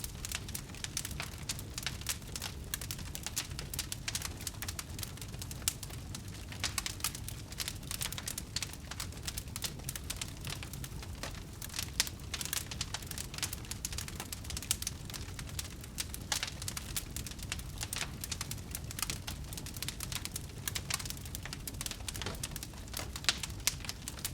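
Wood fire burning, with dense irregular crackling and popping over a low steady rumble of the flames.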